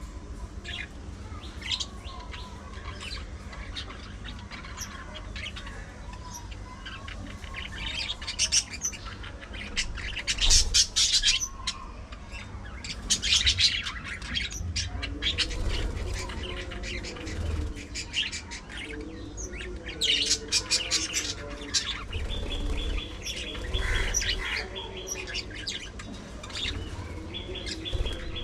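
A flock of budgerigars chirping and chattering, with several louder bursts of rapid calls, over a steady low hum.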